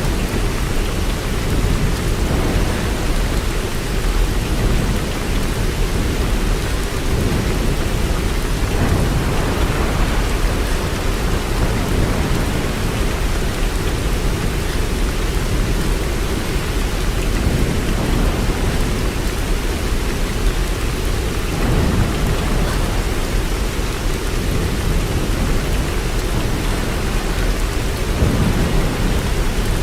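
Steady heavy rain: an even, unbroken hiss with a strong low rumble underneath.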